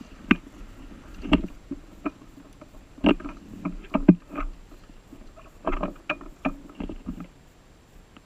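Irregular clunks and knocks in several clusters, with quieter stretches between them.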